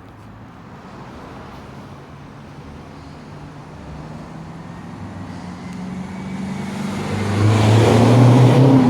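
Ford Mondeo 2.2 TDCi four-cylinder diesel running through a de-catted stainless steel custom exhaust. The engine note holds a steady pitch and grows steadily louder, loudest near the end.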